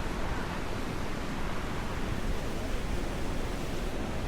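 Steady road and wind noise of a moving electric car, an even rush with no engine note and no distinct events.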